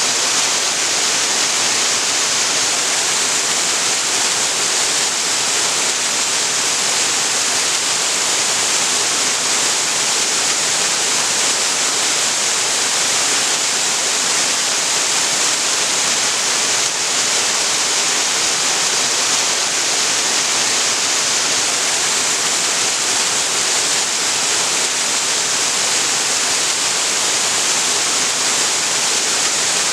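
Waterfall: a steady, unbroken rush of falling water, loud and even, with a bright hiss.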